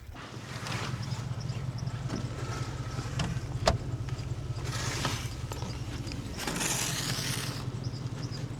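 A small motor or engine running steadily with a low hum, with two stretches of hiss about five and seven seconds in and a single sharp click a little before.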